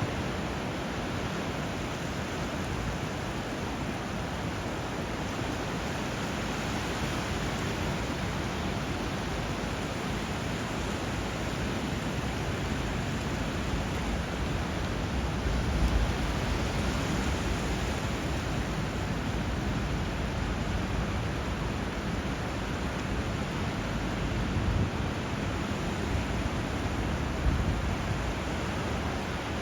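Steady rushing of moving water, river flow and surf, as an even hiss with no pitch, swelling briefly louder about halfway through and twice near the end.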